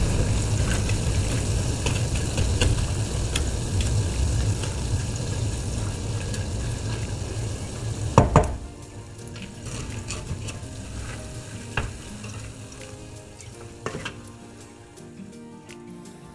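Chicken skins deep-frying in hot oil, sizzling while a wooden spoon stirs and scrapes over them. The scraping sounds crusty, the sign that the rinds are crisp and done. About eight seconds in there is a sharp clatter, and after it the sizzling is quieter.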